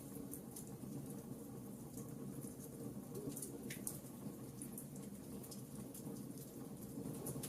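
Wood fire burning in a fireplace: a low steady rush of flames with scattered small crackles and pops.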